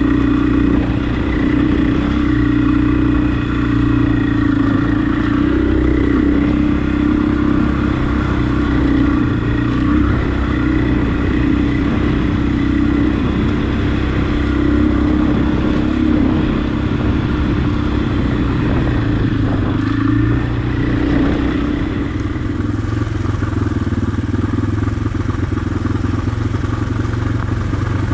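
Husqvarna enduro dirt bike engine running while being ridden, its note holding fairly steady with small rises and falls as the throttle changes.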